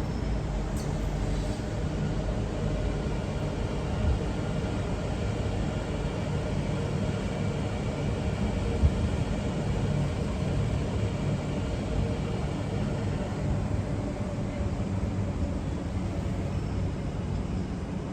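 MTR Q-Train running on track: a steady rumble with a faint steady whine, and a couple of brief knocks.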